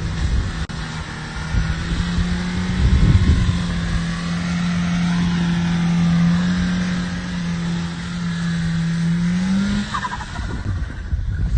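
Audi A4 B8's turbocharged 2.0-litre four-cylinder engine held at steady revs for about ten seconds, the note rising briefly near the end before it drops away.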